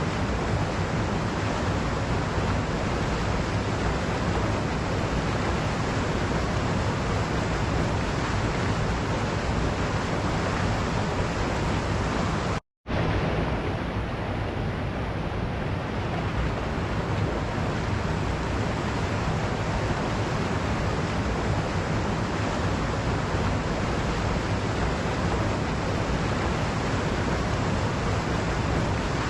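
Waterfall: a steady, even rush of falling water, broken once by a split-second gap of silence about 13 seconds in.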